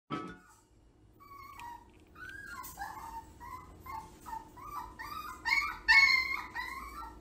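A dog whining and whimpering: a run of short, high-pitched cries that rise and fall, several a second, getting louder about five seconds in.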